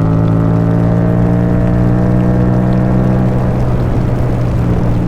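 Yamaha MT-07's parallel-twin engine running through an Akrapovic exhaust at a steady cruise, its pitch rising a little and then easing off about three seconds in.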